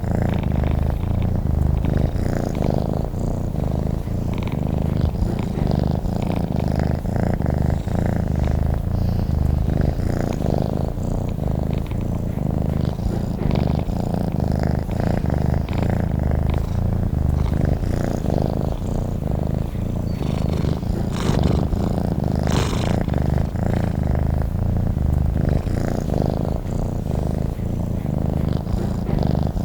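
Domestic cat purring steadily, a continuous low, rapidly pulsing rumble.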